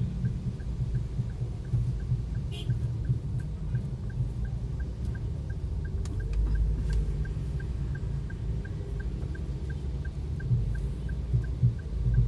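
Low, uneven rumble of a vehicle driving through heavy rain, with a faint steady ticking about three times a second and a few light clicks.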